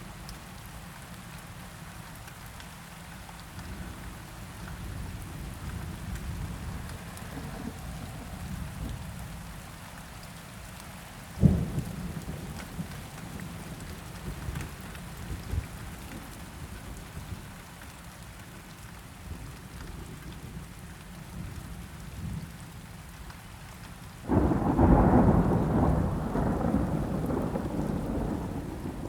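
Steady rain with low rolling thunder. About eleven seconds in there is a single sharp thunder crack; near the end a loud peal of thunder breaks in suddenly and slowly rolls away.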